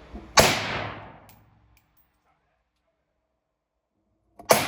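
Two gunshots from a firearm, one about half a second in and one near the end. Each is a sharp crack followed by an echo that dies away over about a second.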